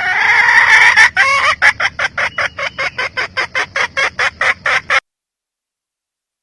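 Red junglefowl hen calling: a drawn-out squawk, then a rapid run of clucks, about four to five a second, that cuts off suddenly about five seconds in.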